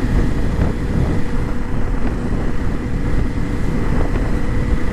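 Motorcycle running steadily at low speed, with a low rumble and wind buffeting the microphone.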